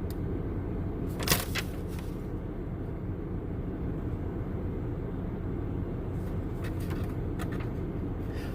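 Steady low rumble of an idling car, with one brief handling noise about a second in.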